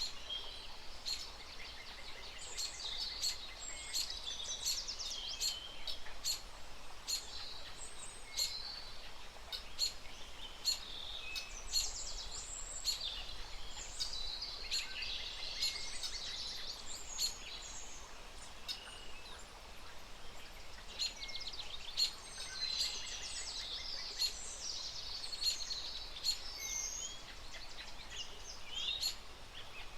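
Many small birds chirping and twittering at once, a dense chorus of short high calls and trills, with frequent sharp clicks throughout.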